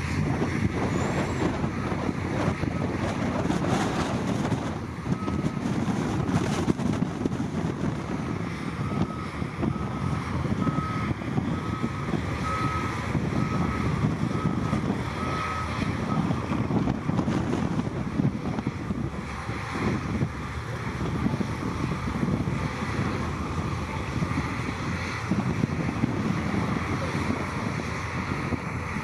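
Heavy diesel machinery running with a steady rumble. A reversing alarm beeps about once a second for roughly ten seconds, starting about six seconds in, then stops.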